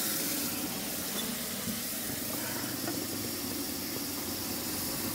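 Onion-and-spice masala sizzling steadily in hot oil in a wok on a gas stove, over a low, steady rumble.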